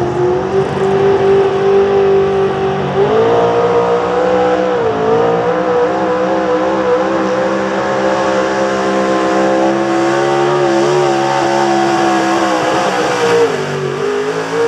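Pulling truck's engine held at high revs under full load as it drags the sled down the track. The pitch climbs about three seconds in, dips briefly about two seconds later, holds high and steady, then drops away near the end of the run.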